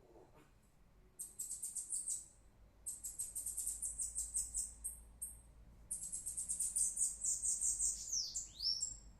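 Bananaquit singing: three bouts of its high, rapid, buzzy trilled song, the last ending in a few down-slurred notes.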